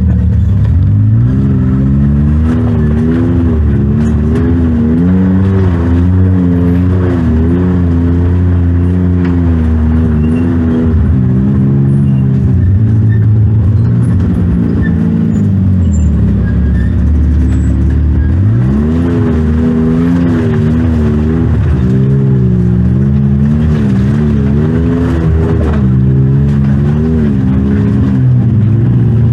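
Side-by-side UTV engine revving up and down under changing throttle, working hard, with a quick climb in revs about two-thirds of the way through.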